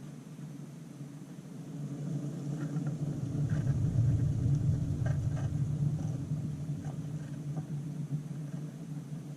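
A low rumble that swells about three seconds in and then slowly fades, with a few faint short ticks in the middle.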